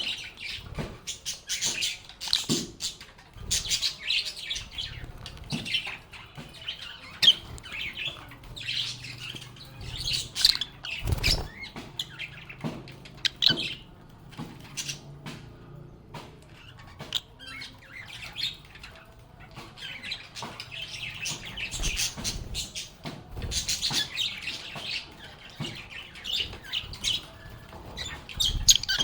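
A flock of lovebirds chirping and chattering, a near-continuous stream of short high-pitched calls with brief lulls. Scattered sharp clicks and a few soft thumps are mixed in, the loudest thump about eleven seconds in.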